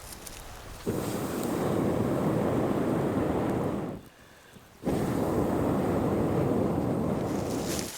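Strong wind rushing and buffeting the microphone, a loud steady rush that cuts in abruptly about a second in, drops out briefly around the middle, and comes back just as abruptly.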